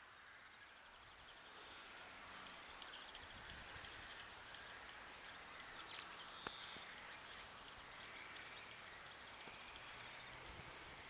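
Faint outdoor background hiss with small birds chirping here and there, and one faint click a little past the middle.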